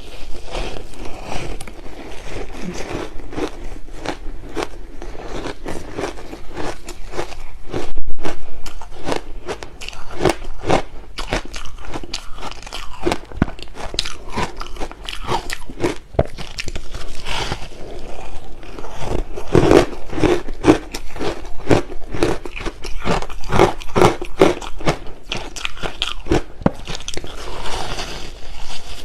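Close-miked crunching and chewing of shaved ice: a dense run of irregular crunches and crackles, with one louder crunch about eight seconds in.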